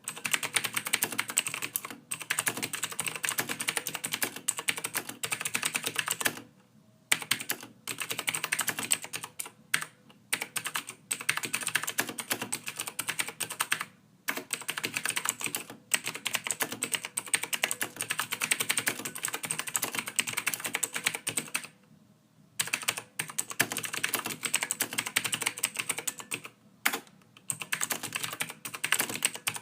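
Continuous typing on a computer keyboard, rapid key clicks in runs of a few seconds with brief pauses between them.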